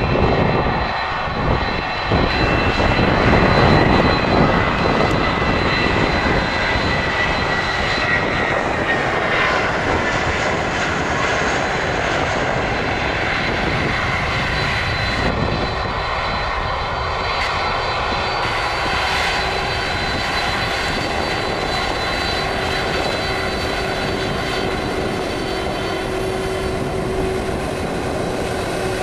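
Jet airliner engines running, a steady loud rushing noise with a high turbine whine over it, a little louder in the first few seconds.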